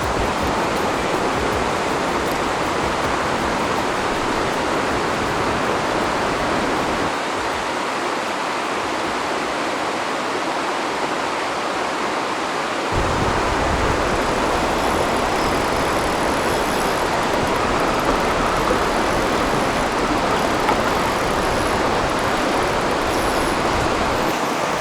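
Rushing river water, a steady loud rush of the current. About thirteen seconds in, a low rumble joins it.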